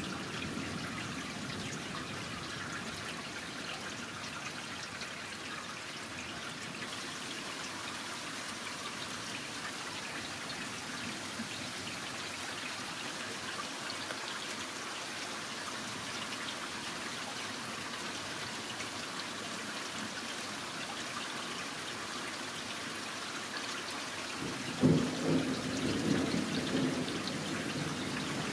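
Steady rain falling, then near the end a sudden clap of thunder that rumbles on.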